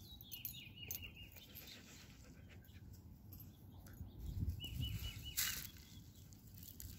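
A bird trilling faintly twice, a run of short quick notes at one high pitch, over low rumbling on the phone's microphone, with a brief rustle about five and a half seconds in.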